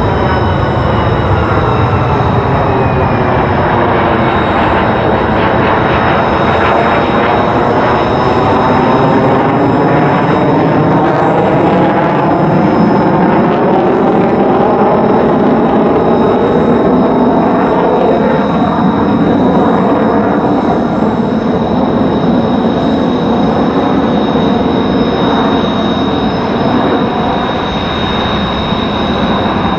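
F-35A fighter's single Pratt & Whitney F135 turbofan running loud and steady, with a high whine held throughout. The pitch of the jet noise slides down over the first few seconds and rises again later as the aircraft moves relative to the listener.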